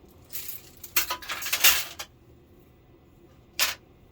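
Thin TV backlight strips rattling and clattering as they are handled and fitted, with a cluster of knocks and rattles in the first two seconds and a single sharp click about three and a half seconds in.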